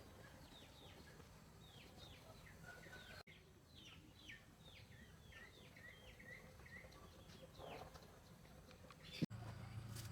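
Faint bird calls: a run of short, high chirps, each falling in pitch, about two or three a second. Near the end there is a click, then a low steady hum.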